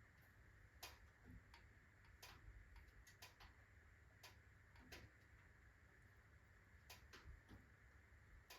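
Wood fire in a fireplace crackling faintly: sparse, irregular sharp pops and ticks, roughly one a second, from burning alder, birch and oak logs.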